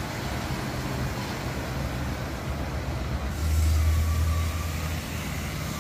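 A 1975 Pontiac Grand LeMans V8 engine running with a steady low rumble. It swells louder for about a second and a half, a little past the middle.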